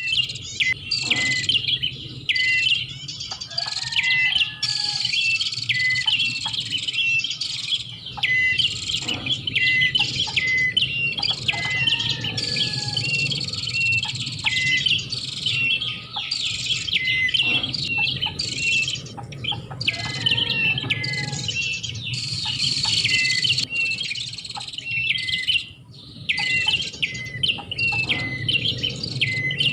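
Prinia (prenjak) calls as a bird-trapping lure: rapid, high, sharp chirps in dense runs, with the sequence repeating about every eight seconds. A steady low hum runs beneath.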